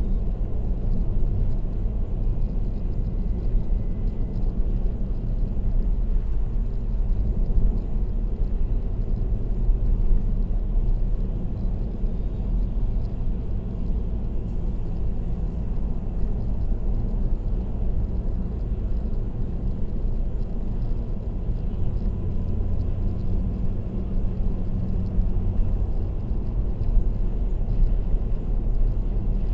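Steady road and tyre noise of a car cruising on an expressway: a low, even rumble with a faint engine hum beneath it.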